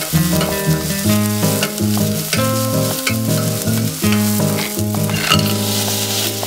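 Sliced onions and dried peperoncino sizzling in oil in a stainless steel pot, stirred with a wooden spatula, under background music.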